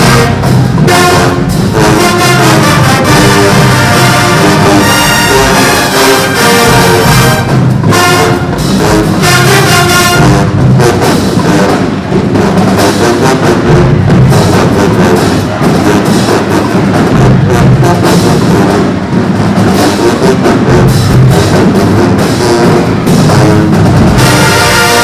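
Marching band playing loudly: full brass section of trumpets and trombones over drums, a dense, continuous ensemble sound with a steady beat.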